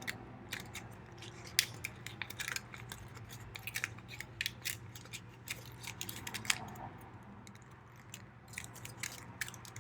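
Folded origami paper crinkling and crackling in irregular short snaps as the pockets of a paper unit are opened by hand.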